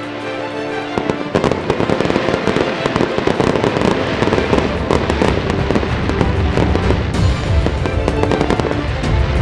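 Fireworks going off in a rapid, dense barrage of bangs and crackles that starts about a second in, with music playing throughout.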